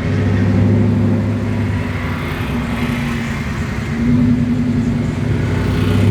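Truck engine running steadily, its note swelling about four seconds in and again near the end.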